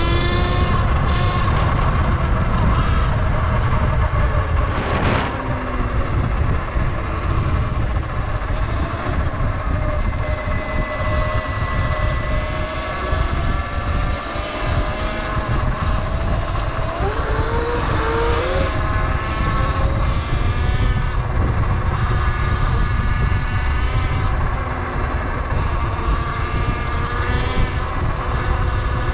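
Sur Ron electric dirt bikes riding, their electric motors whining and gliding up and down in pitch with speed, rising at the start. Heavy wind rumble on the microphone lies under the whine.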